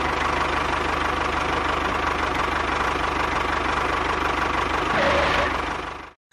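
Tractor engine idling steadily with a fast, even pulsing, swelling slightly near the end before it cuts off abruptly.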